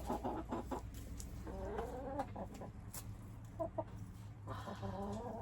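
Domestic hens clucking in wavering calls, with a few sharp clicks in the first second.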